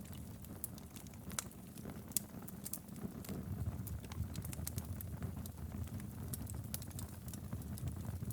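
Wood logs burning in a fireplace: a steady low rumble of flames with frequent irregular crackles and sharp pops.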